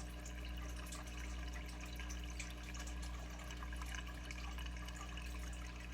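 Aquarium filter running: a steady trickle of water with small drips, over a low steady hum.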